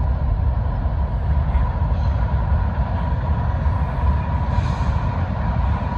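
CSX diesel-electric freight locomotives passing close at the head of a long mixed freight train: a steady heavy low rumble, with a faint steady high whine running through it.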